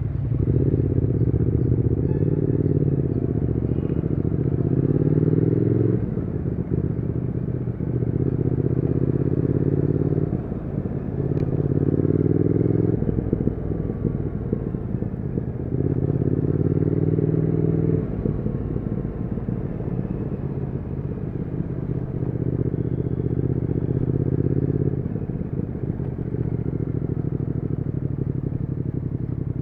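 Triumph Speed Twin 1200's 1200 cc parallel-twin engine and exhaust under way, accelerating in several pulls that rise in pitch, each broken by a short dip as the rider shifts up or rolls off the throttle. A single sharp click sounds about eleven seconds in.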